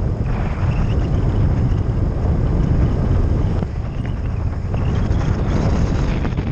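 Wind buffeting a motorcycle helmet camera's microphone while riding, with the motorcycle and road running underneath as a steady rumble.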